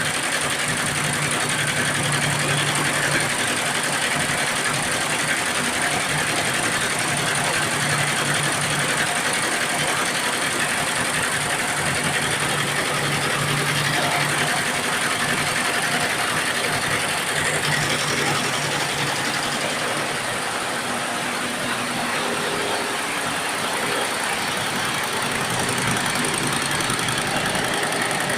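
Computerized embroidery machine running steadily as it stitches, with a low hum that comes and goes every few seconds.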